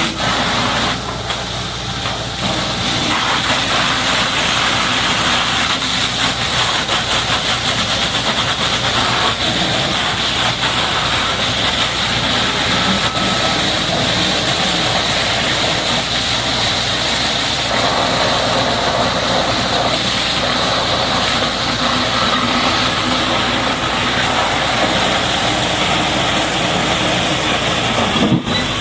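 High-pressure water jet hissing steadily as it sprays down a Caterpillar D8R bulldozer, with an engine running steadily underneath.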